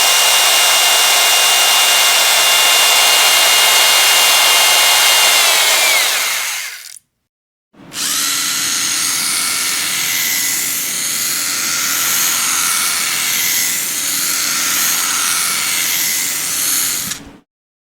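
Electric power drill running at high speed with a steady whine. It winds down in pitch and stops about seven seconds in, then after a short pause starts again and runs steadily before stopping near the end.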